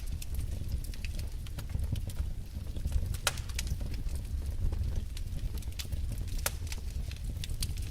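Wood fire burning in a fireplace: a steady low rumble of flame with irregular sharp crackles and pops from the logs, two of them louder, at about three seconds and at about six and a half.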